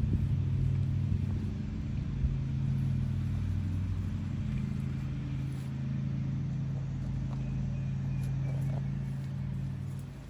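An engine running steadily with a low, even hum, easing off slightly near the end.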